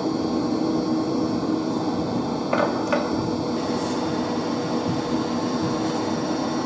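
Steady mechanical hum of electric circulation pumps running in a heating substation, with two light knocks about two and a half seconds in.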